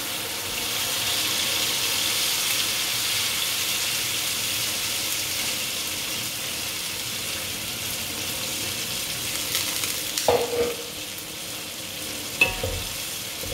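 Ground spice paste frying in hot oil in a pot: a steady sizzle that swells about a second in and slowly eases off. A few short clatters of stirring come near the end.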